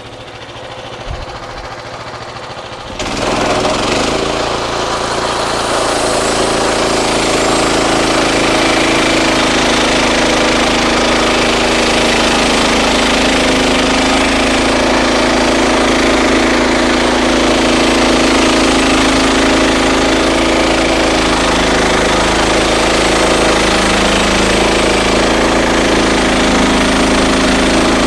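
Frontier OS31 bandsaw mill's engine running. About three seconds in, the blade enters a red oak log and the sound jumps much louder into a steady cutting noise that carries on through the pass.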